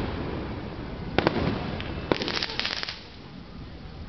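Aerial fireworks: a sharp bang about a second in, then a quick run of crackling from bursting shells around the two-second mark. It dies down shortly after, and another bang comes at the very end.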